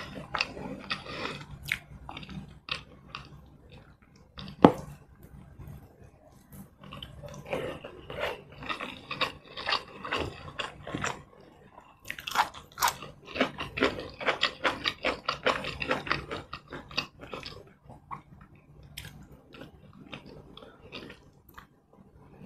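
Close-miked eating sounds: chewing with wet mouth clicks and smacks, and a busy run of crisp bites about twelve seconds in as raw long beans are bitten and chewed. A single sharp click about four and a half seconds in is the loudest sound.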